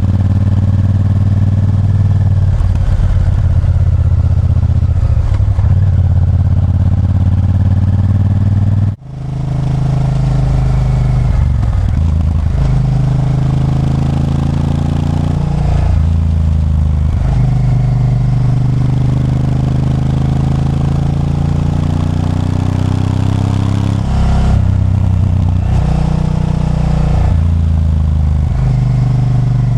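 Honda Varadero 1000's 90-degree V-twin engine running on the move, its pitch climbing slowly as it pulls and breaking off at each gear change, several times over. The sound drops out for an instant about nine seconds in.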